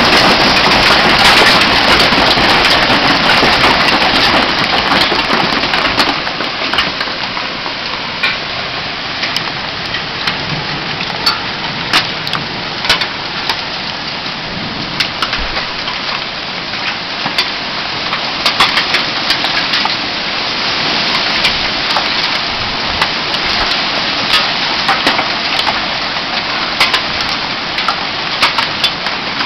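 Hail and rain pelting down: a dense, steady rush of noise with many sharp, separate clicks of hailstones striking hard surfaces. It is loudest for the first six seconds or so, then eases slightly.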